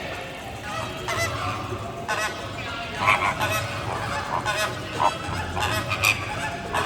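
A flock of birds giving loud, goose-like honking calls, repeated and overlapping, with several sharper calls standing out in the second half.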